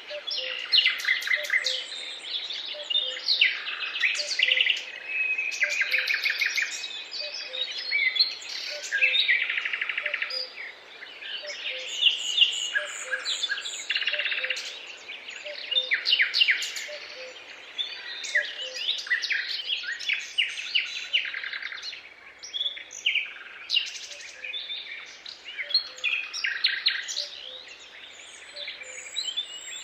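Dawn-chorus-style birdsong: many songbirds singing and calling at once, with overlapping chirps, trills and whistles. A faint low note repeats about once a second underneath.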